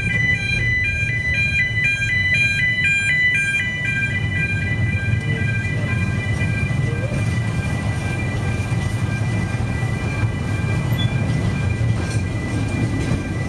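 Welsh Highland Railway narrow-gauge carriage running along the track, a steady low rumble heard from its open balcony. An electronic two-tone warning alarm alternates rapidly over it for the first four seconds or so, then its tones go on steady and fainter.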